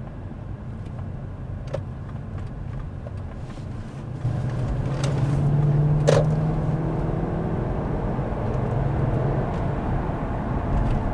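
Lexus SC 430's 4.3-litre 3UZ-FE V8 and road noise heard from inside the cabin while driving. About four seconds in the engine pulls harder and its note comes up louder and steady for several seconds. A single sharp click comes about two seconds after that.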